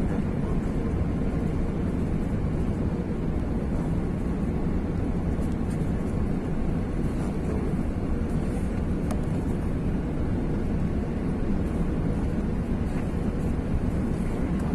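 Steady cabin noise inside an Airbus A380 on its approach to land: a constant rumble of engines and airflow, heaviest in the low range, with no change in level.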